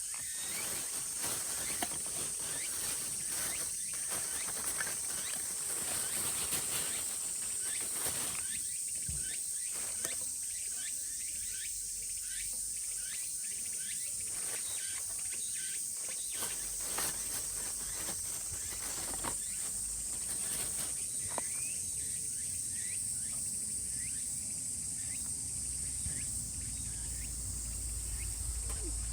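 Summer cicadas singing in a steady, unbroken high-pitched chorus, with scattered light clicks and crackles underneath.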